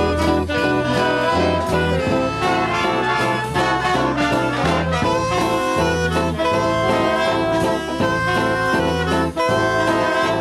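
Big-band swing music: the brass and saxophone sections play an instrumental passage over a moving bass line, with no vocal.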